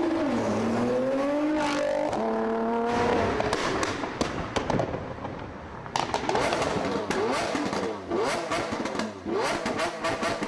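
Modified car engines revving: the pitch climbs and drops in quick blips several times, with sharp exhaust pops and crackles between the revs.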